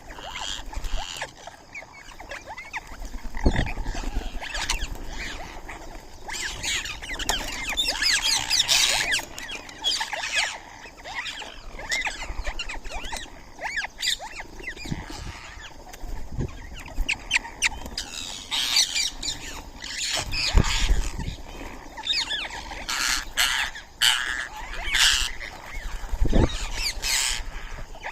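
A group of birds calling in many short, quick chirps and squawks, busiest in two spells, with a few low thumps in between.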